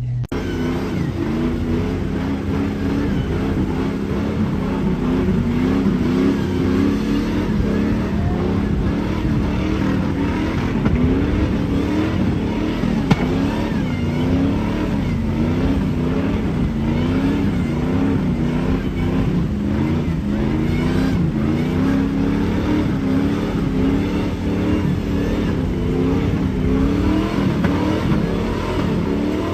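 A vehicle engine revving over and over, its pitch rising and falling every second or two.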